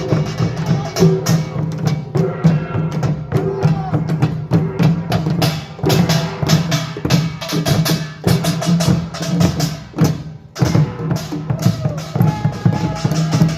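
Korean pungmul percussion ensemble playing a fast, dense rhythm of small gong and drum strokes over a steady ringing low tone. The playing breaks off briefly about ten seconds in, then picks up again.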